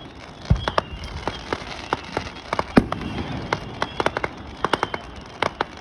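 Fireworks going off: an irregular string of sharp pops and cracks, with one deeper boom about half a second in.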